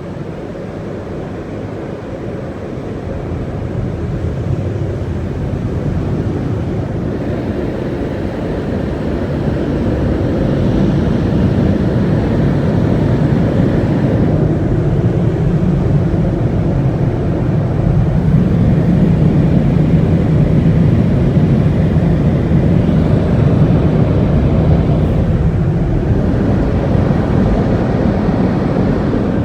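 Car wash tunnel dryers blowing air onto the car as it passes under them, a steady roar that grows louder over the first several seconds and stays loud. The blowers run without silencers.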